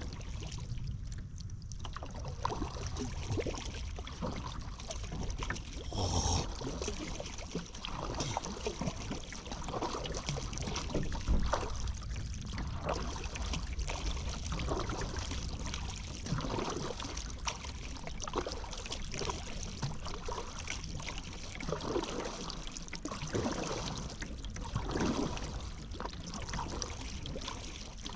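Paddle strokes through river water from a small paddled boat, with a splash and wash every second or so over the steady lapping of water against the hull.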